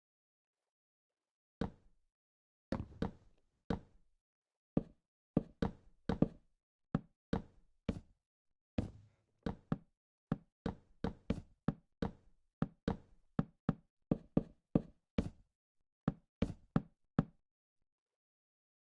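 An uneven series of about thirty sharp knocks, starting about a second and a half in and stopping shortly before the end.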